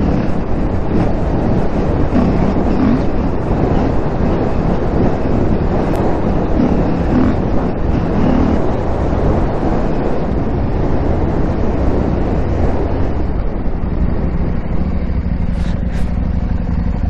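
KTM 890 Adventure R's parallel-twin engine running as the motorcycle is ridden off-road, with rushing road and wind noise. Near the end the engine note steadies into an even hum.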